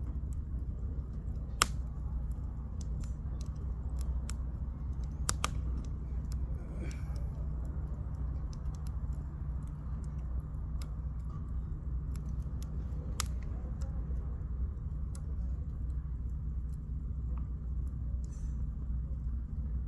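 Campfire firewood crackling, with scattered sharp pops, the loudest about one and a half seconds in, over a steady low rumble.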